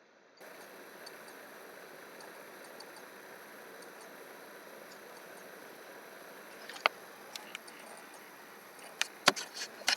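Steady room hiss that starts about half a second in, with a single sharp click about seven seconds in, two lighter ones just after, and a quick run of louder clicks near the end.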